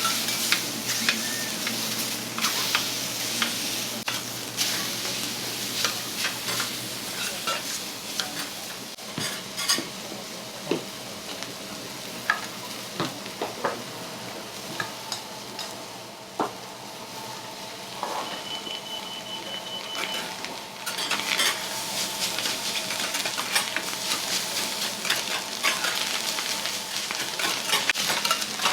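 Food sizzling on an iron teppan griddle while metal spatulas scrape and tap against the plate in many short strokes. The sizzle eases off through the middle and comes back louder for the last several seconds.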